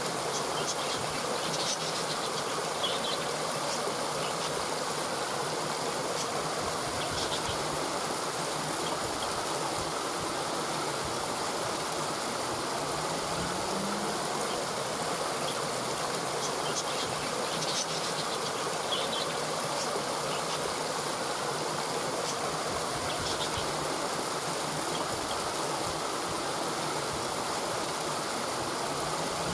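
Steady rushing of a flowing stream, with faint short high chirps now and then.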